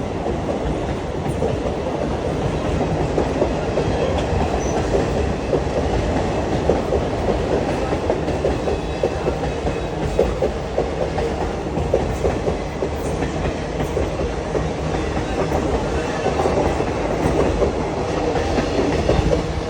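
Express passenger train running at speed, its wheels clattering steadily over the rail joints with a continuous rumble.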